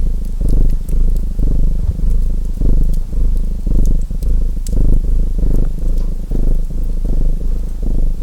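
Domestic cat purring close up, a low rumble swelling and easing about once a second with each breath, mixed with the light crackle of a wood fire in a fireplace.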